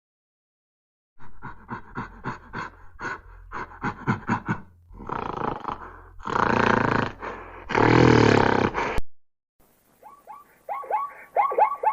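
Recorded animal calls: a run of short grunts, about three a second, leads into three longer rough roars that cut off suddenly. After a short pause a different animal starts a series of quick chirping calls near the end.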